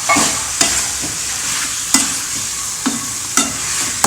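Chicken frying in oil with onion-tomato masala, being stirred in the pan: a steady sizzle broken by a short scrape or knock of the stirring utensil against the pan about once a second.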